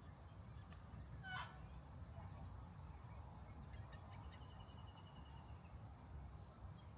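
A quiet outdoor scene with a low rumble. About a second in, a bird gives a single short honking call. Later a faint, thin, high trill sounds for about a second and a half.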